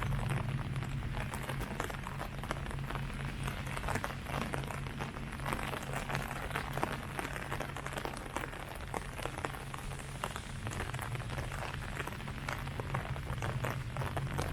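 Steady rain falling on leaves: a dense patter of many separate drop hits over a constant hiss, with a steady low hum underneath.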